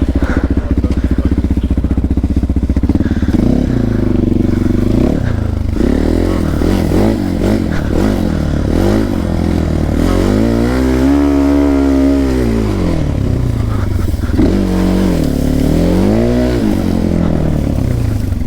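Small motorcycle engine being ridden, its pitch climbing and dropping repeatedly with the throttle, with one long rev up and back down near the middle and another shorter one after it.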